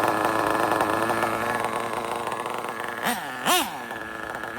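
RB CE sealed-backplate nitro engine in an RC drag car running steadily and slowly fading, then two quick revs about three seconds in, the pitch rising and dropping each time. The tuning is a little leaner on the low-speed needle than up top, as the owner hears it.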